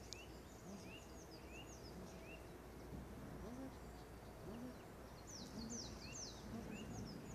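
Wild birds singing in the background: bursts of quick high descending notes, short rising chirps repeated about every half second, and a lower repeated call underneath.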